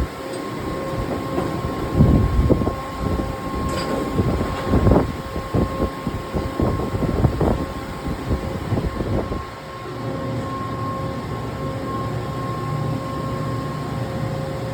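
Matsuura CNC horizontal machining center running: a steady high whine over low mechanical rumble, with a run of clunks and clatter of moving parts through the first ten seconds. It then settles into a steadier hum.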